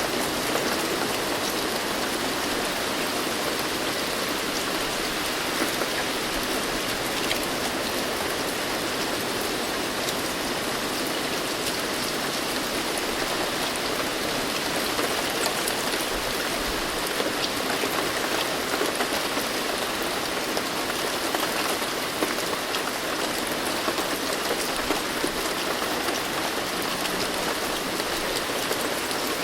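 Steady rain falling, a dense even hiss with many small individual drop ticks.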